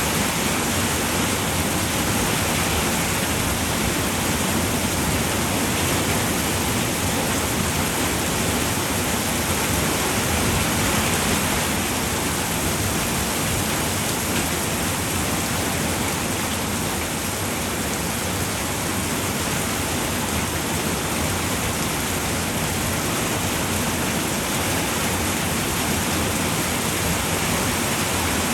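Steady rain falling on a roof: an even, continuous hiss with no separate drops standing out.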